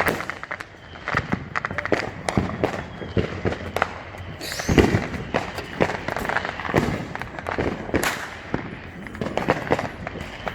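Many consumer fireworks and firecrackers going off at once, a dense, irregular string of sharp bangs and crackling pops, with a louder deep boom a little under five seconds in.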